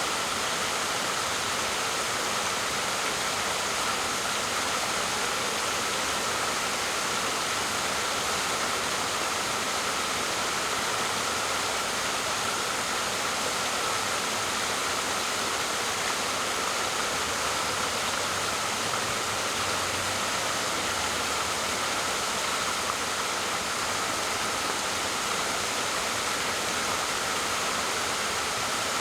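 Waterfall: a steady, unbroken rush of falling water with a hiss in the upper range.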